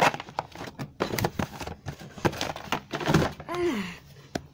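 Paper leaflets being handled at close range: a quick run of knocks and rustles, then a short voice-like sound falling in pitch near the end.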